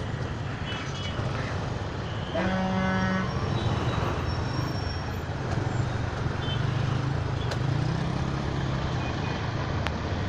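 Traffic noise heard from a moving motorcycle, with a vehicle horn sounding once for about a second, a little over two seconds in. Engine hum from the surrounding traffic rises and falls afterwards.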